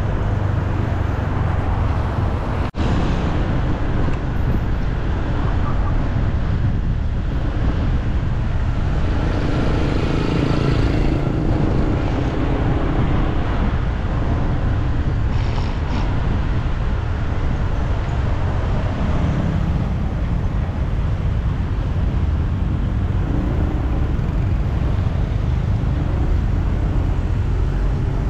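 Steady city traffic noise: a continuous rumble of cars and other vehicles on a busy road. It breaks off for an instant about three seconds in.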